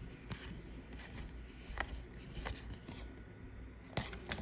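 Pokémon trading cards being handled and flipped through one by one, giving a few soft, scattered clicks and slides of card stock.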